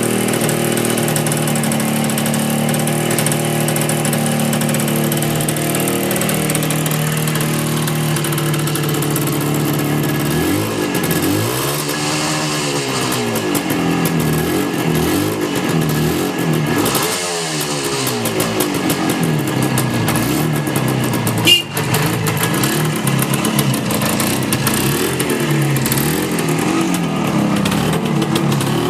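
Suzuki GT250 air-cooled two-stroke twin engine idling steadily, then revved up and back down twice, about ten seconds in and again a few seconds later, before settling back to idle. A single sharp click about two-thirds of the way through.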